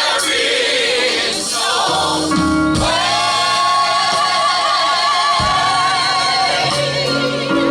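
Gospel vocal group singing with band accompaniment and a stepping bass line. About three seconds in, the voices hold a long note with vibrato for a few seconds.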